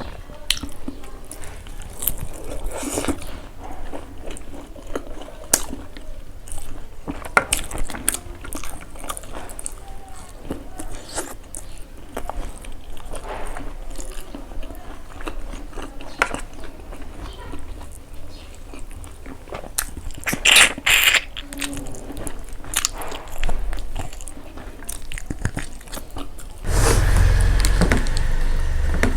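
Close-up eating sounds: chewing, lip smacks and crunching bites, with a louder run of smacks about two-thirds of the way in. Near the end a loud steady rushing noise with a deep rumble starts suddenly.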